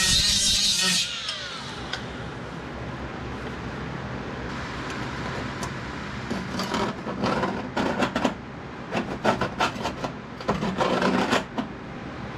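A power tool runs and cuts off about a second in, winding down. Then come irregular bursts of rubbing and scraping on sheet metal.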